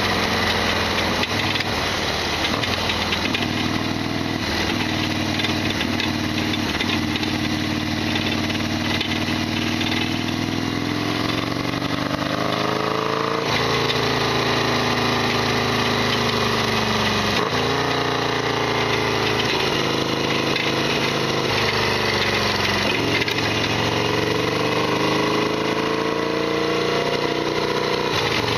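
Harley-Davidson XL1200R Sportster's 1200 cc V-twin engine under way, the revs rising and falling as it is ridden, with sudden drops in pitch about 13 and 17 seconds in, as at gear changes or closing the throttle. The owner describes the bike as rattly and noisy.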